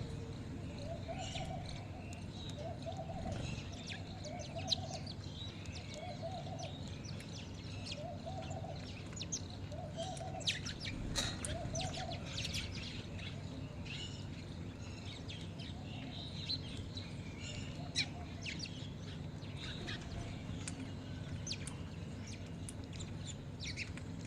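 A mixed flock of birds at a feeding spot calling: many short high chirps and tweets scattered throughout, with a low call repeating about once a second through the first half.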